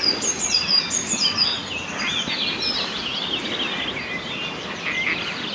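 Several birds singing and calling at once in a spring morning chorus: repeated high, falling chirps in the first half over a dense chatter of overlapping calls.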